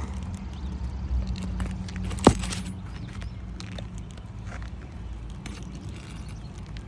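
Light scuffs and small clicks of work on an asphalt shingle roof, with one sharp knock about two seconds in, over a steady low hum.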